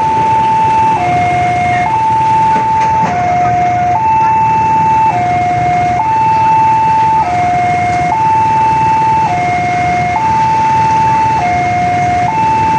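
Railway level-crossing warning alarm sounding, an electronic two-tone signal alternating steadily between a higher and a lower tone about once a second: the crossing is warning of an approaching train. A steady low rumble runs underneath.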